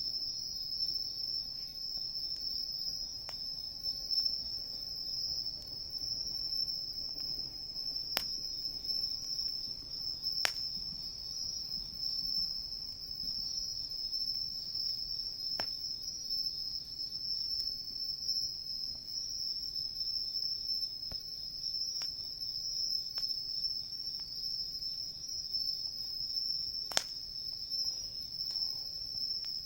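A steady, high-pitched chorus of singing insects, cricket-like, with the low hiss of a wood fire burning and a few sharp pops from the burning wood, the loudest near the end.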